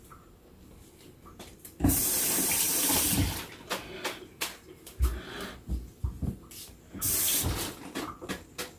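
Kitchen tap running in two short spells, the first about a second and a half long and the second under a second, with small knocks and clicks between them.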